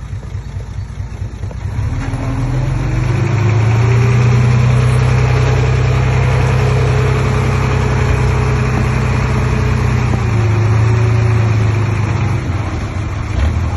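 Komatsu D20P bulldozer's diesel engine running, revving up about two seconds in, holding a steady pitch, then easing back down near the end.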